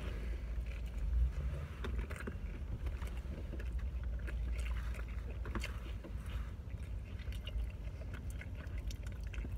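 Two people chewing mouthfuls of a saucy McRib sandwich, with soft wet smacks and clicks scattered throughout, over a steady low rumble in a car's cabin.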